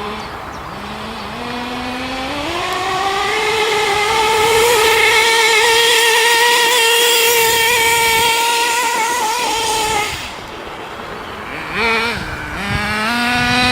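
Two-stroke nitro glow engine of a Reely Rex RC car revving up from low revs in steps and holding high revs for several seconds. About ten seconds in it drops off, gives a short blip, then climbs again near the end.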